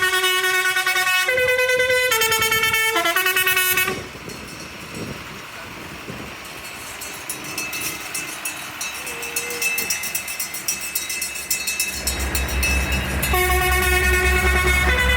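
A multi-note musical horn sounds a short tune of held notes, stepping from pitch to pitch, then stops for several seconds. A tractor engine runs through the gap, and a deep pulsing engine rumble grows louder near the end as the horn tune starts again.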